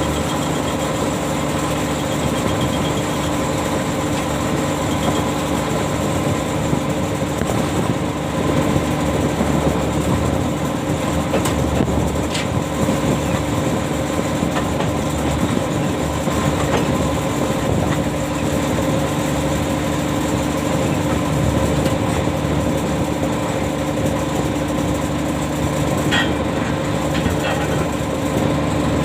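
Ship's machinery running steadily, a constant hum with several held tones and a few faint clicks.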